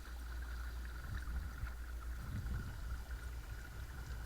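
Watersnake T24 12-volt electric trolling motor running steadily with a constant high hum, over a low rumble and water gurgling along a kayak hull, muffled as if through a waterproof camera case.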